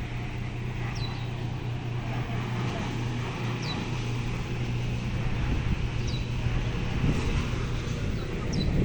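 An engine running steadily with a low hum. A short, high, falling chirp comes back about every two and a half seconds.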